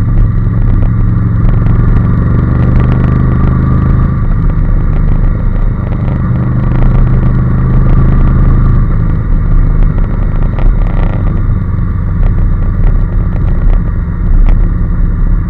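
Honda NC750S motorcycle's parallel-twin engine running at a steady pace while riding.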